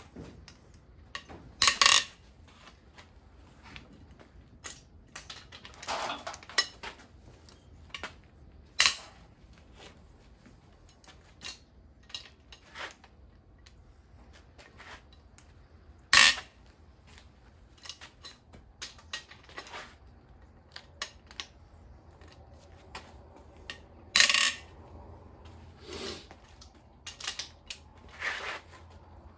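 Hand tools clinking and clanking on metal as cylinder head bolts on an engine are broken loose, with scattered light clicks and a few louder clanks spread through.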